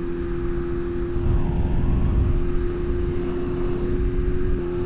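BMW S1000RR's inline-four engine running at a steady cruising speed with a constant engine note, under heavy wind and road rumble. The rumble swells louder about a second or two in.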